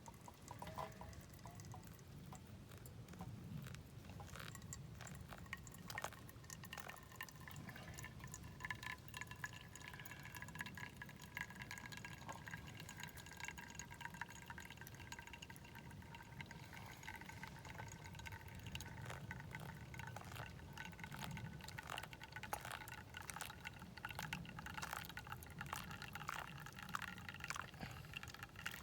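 Campfire burning with scattered crackling pops over a low rumble, and faint thin whistling tones that sag slowly in pitch, like steam hissing from burning wood.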